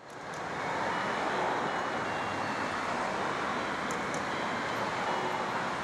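Steady street traffic noise, an even rush that fades in over the first second.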